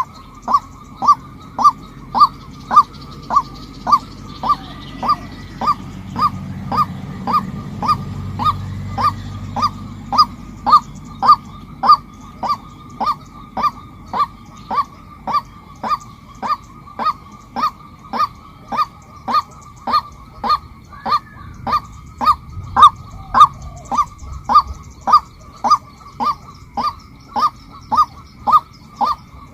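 Female white-breasted waterhen calling: one short honking note repeated over and over at an even pace, about two a second.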